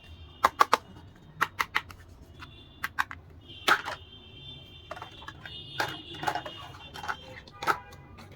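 Hard plastic dollhouse pieces clicking and tapping as they are handled, with many sharp, irregular clicks, some in quick pairs and threes. A faint, high, steady tone runs underneath at times.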